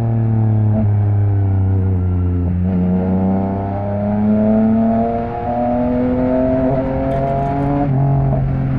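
Yamaha MT-09's three-cylinder engine through an Akrapovič exhaust while riding. The engine note falls for about two and a half seconds, then rises steadily under acceleration and drops suddenly near the end, like an upshift.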